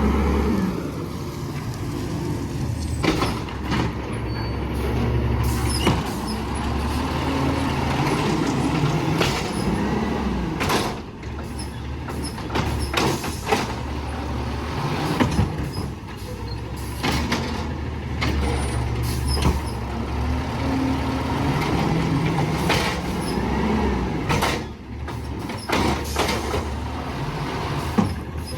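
Garbage truck's diesel engine running and revving up and down several times as it works its lift to pick up trash. Sharp metallic clanks and bangs are scattered throughout.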